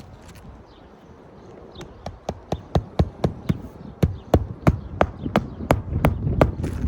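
Hammer driving roofing nails into asphalt shingles: a steady run of ringing strikes, about three a second, starting about two seconds in.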